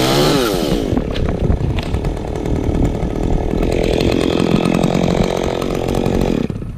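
Stihl chainsaw cutting into wood: its engine pitch drops as the chain bites and it runs under load through the cut. It cuts off near the end.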